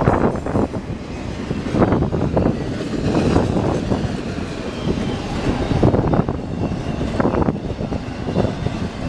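Freight train cars rolling past close by, including trailers carried on the train: a steady rumble of wheels on rail with irregular clanks.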